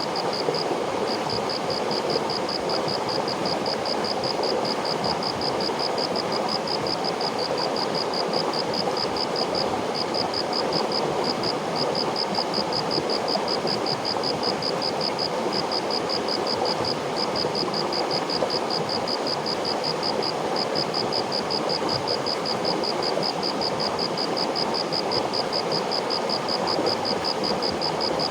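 River water flowing in a steady, even rush. A high, fast-pulsing trill runs over it with a few short breaks.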